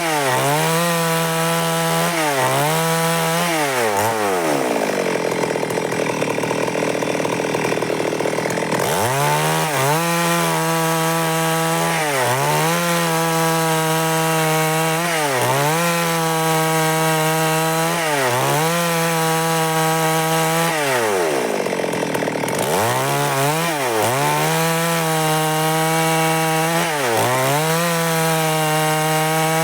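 Stihl MS382 two-stroke chainsaw cutting through wood under load. Its engine pitch dips and recovers about every second and a half. The engine slows further and for longer about four seconds in and again about twenty-one seconds in.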